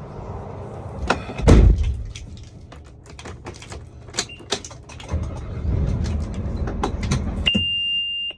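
Vehicle rumble with a run of clicks, knocks and rattles and one loud thump about a second and a half in. Near the end a steady high beep sounds for under a second, then everything cuts off suddenly.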